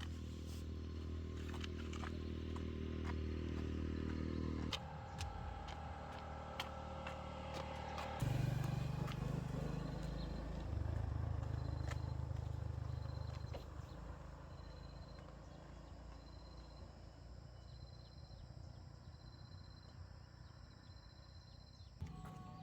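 An engine running with a steady low note that jumps to a new pitch several times, as with changes of speed or gear, then fades away over the last several seconds, with scattered clicks and knocks.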